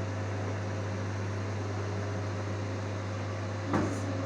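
Steady electrical hum with a fan-like hiss from the idle laser cutter, lid closed and the cut not yet started. A single short knock sounds near the end.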